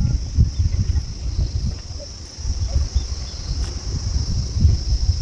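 A steady, high-pitched insect drone from a chorus of cicadas or crickets. Under it is an irregular low rumble and thumping, which is the loudest sound.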